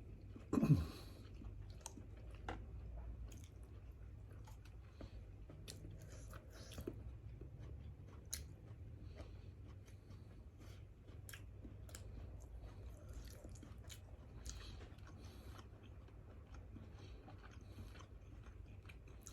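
A person chewing and eating grilled fish close to the microphone: soft chewing with scattered small mouth and lip clicks over a low steady hum. A brief louder sound, falling in pitch, comes about a second in.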